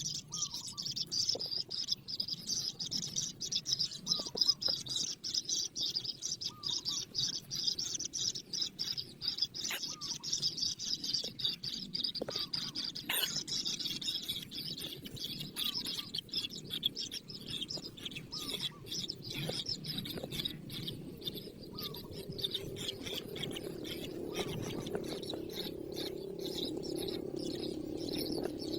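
Birds chirping in a dense, rapid high chatter that thins out past the middle, with a few separate lower calls. A steady low hum builds over the last several seconds.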